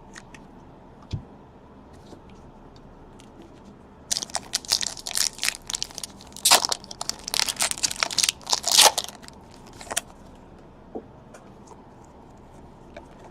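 A trading-card pack wrapper being torn open and crumpled: a dense run of sharp crackling and tearing for several seconds, starting about four seconds in. Only faint card-handling ticks come before and after it.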